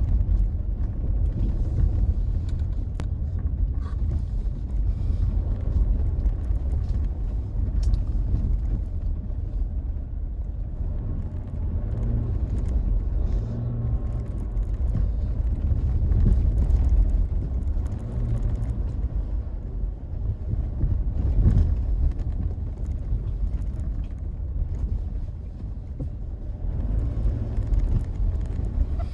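A car being driven, with a steady low rumble of engine and road noise that swells and eases a little as it goes.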